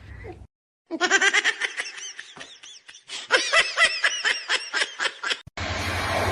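A person laughing hard in quick, rapid bursts, each rising and falling in pitch, for about four and a half seconds. It breaks off near the end and a steady rumbling noise takes over.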